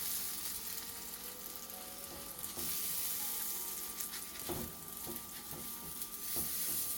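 Buttered potato roti sizzling steadily on a hot griddle, with a few light knocks of a utensil against the pan.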